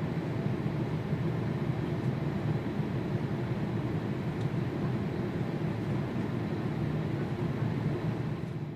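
Jet airliner engines running with a steady low rumble, fading out at the very end.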